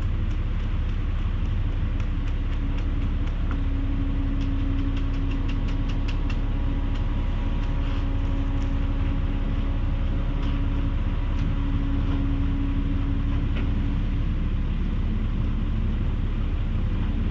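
An engine running steadily, a low rumble with a held hum, with scattered short clicks and scrapes over it.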